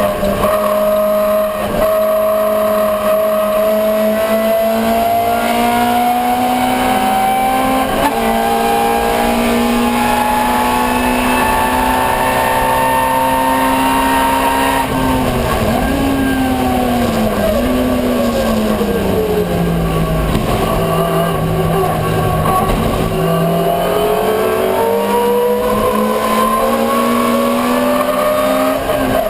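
Ford Escort 1300GT's four-cylinder engine running hard at high revs, its pitch climbing slowly. About halfway through it drops and wavers as the car brakes and shifts down, holds lower for a few seconds, then rises again as it accelerates.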